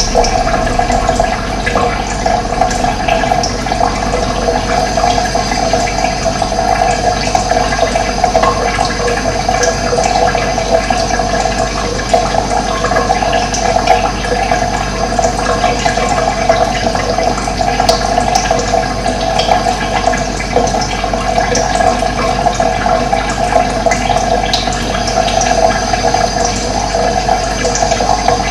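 Running water, a steady rush that holds at the same level throughout.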